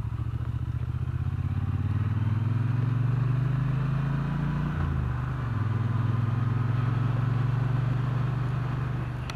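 Motorcycle engine pulling under load, its note rising for the first few seconds, then dropping about five seconds in as the rider changes up a gear, and running steadily after that.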